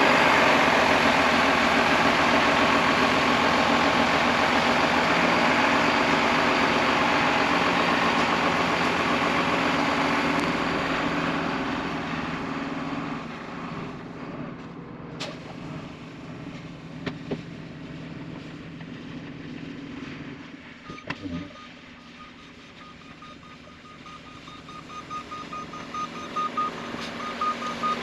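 A heavy machine's engine running loudly, then fading away after about twelve seconds. From about three-quarters of the way in, a repeating high beep sounds, like a backup alarm.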